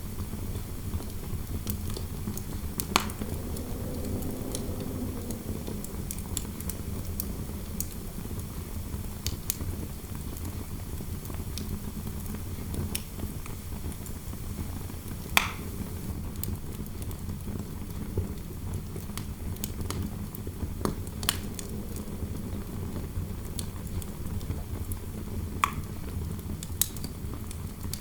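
Fireplace fire crackling, with irregular sharp pops over a steady low rumble of flames and wind; a faint wind howl rises and fades about four seconds in.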